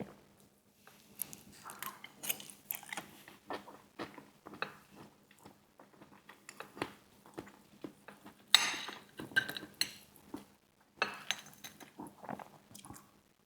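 Close-miked eating of KFC fried chicken wings: bites and chewing with many short crackles, and clicks of food containers being handled. The loudest crackle comes about eight and a half seconds in.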